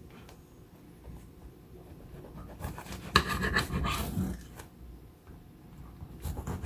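Knife sawing through a sandwich's bread, making short rasping scrapes that are loudest about three to four seconds in.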